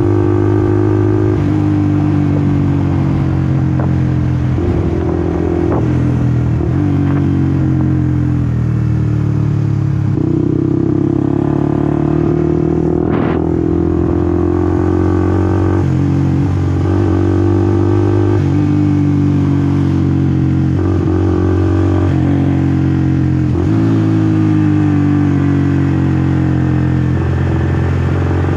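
Honda CBR150R's single-cylinder engine running under way, its note rising and dropping in steps many times as the rider changes gears and throttle. One brief sharp noise about halfway through.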